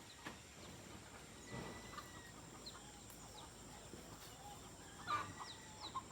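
Faint chickens clucking, with short high falling chirps scattered through and a slightly louder burst of calls about five seconds in.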